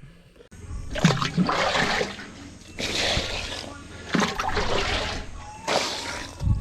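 Water splashing and sloshing in four surges about a second and a half apart.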